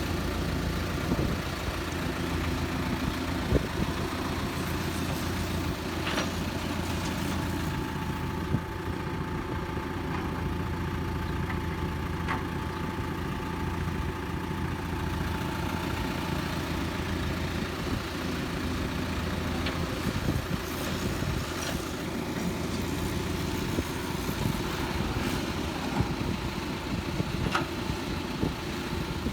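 Heavy diesel engine of construction machinery running steadily at a low idle-like pace, with a few sharp knocks or clanks scattered through.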